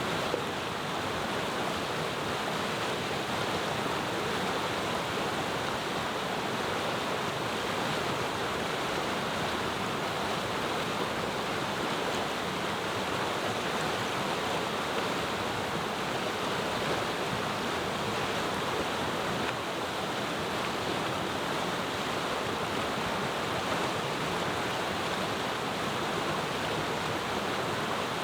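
Mountain river running, a steady rushing murmur of water that never lets up.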